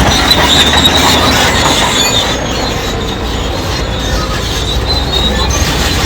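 Crawler bulldozer working, its diesel engine running steadily under the squealing and clanking of its steel tracks.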